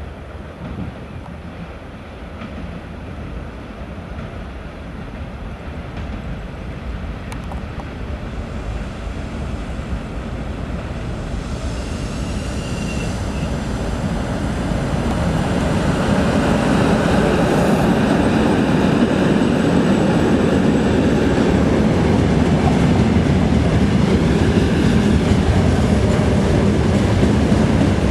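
2M62M twin-section diesel freight locomotive approaching, its engine noise growing steadily louder until it passes about halfway through. Then comes the steady rumble of loaded open freight wagons rolling by on the rails.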